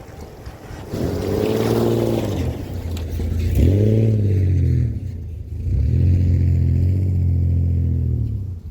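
Vehicle engine revving through its exhaust in three surges, each rising and then falling in pitch. The last surge is the longest.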